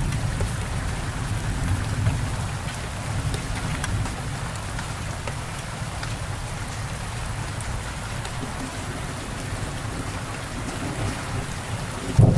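Steady rain falling, with a low rumble of thunder that eases over the first few seconds and swells up again suddenly near the end.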